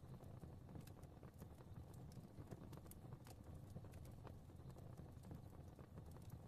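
Fireplace fire crackling faintly: a soft low rumble of flames with scattered, irregular pops and snaps.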